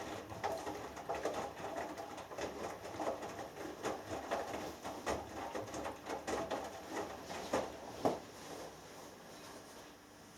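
Hoover Dynamic Next washing machine drum tumbling a wet laundry load in the wash phase: irregular sloshing and soft flops of clothes and water. A louder thump comes about eight seconds in, as the drum stops turning and things go quiet.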